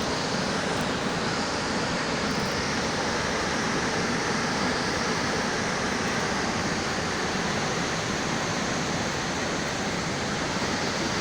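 Water of Kalambo Falls plunging down, a steady, unbroken rushing of falling water.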